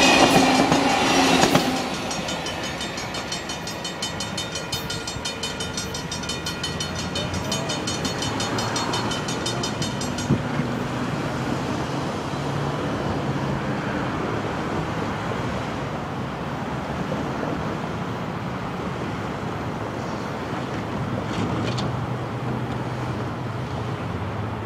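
Amtrak Pacific Surfliner passenger train passing: a horn blast ends about two seconds in, then the train rolls by with regular clicking for several seconds before settling into a steady rumble that slowly fades.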